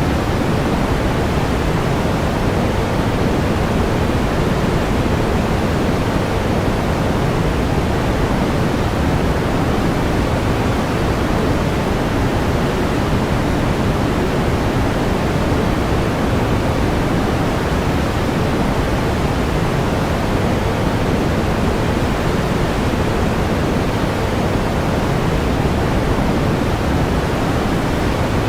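Steady pink noise: an even, unchanging hiss, heaviest in the low end and softer toward the top.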